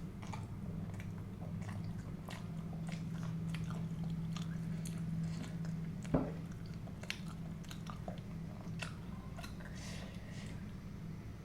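Close-miked chewing and biting of food, with scattered small crunchy clicks and one sharper knock about six seconds in.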